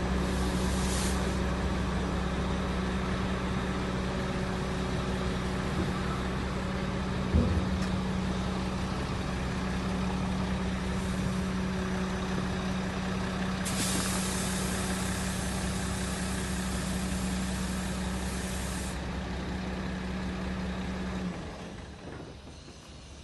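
HOWO 375HP dump truck's diesel engine idling steadily, with a single knock about seven seconds in and a long hiss of air lasting about five seconds in the middle. The engine cuts off near the end.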